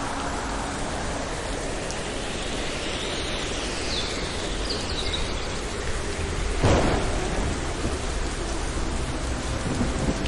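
Steady rain with low rumbling thunder, and a sharp crack of thunder about two-thirds of the way through.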